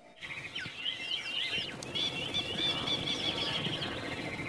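Wild birds chirping and trilling in quick runs of short, repeated notes over a steady outdoor background noise.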